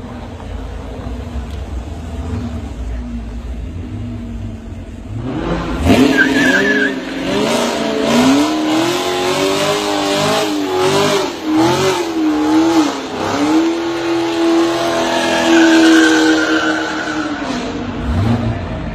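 A car engine rumbles low, then from about six seconds in it is revved hard up and down with tyres squealing, as in drifting or a hard getaway, until it drops back near the end.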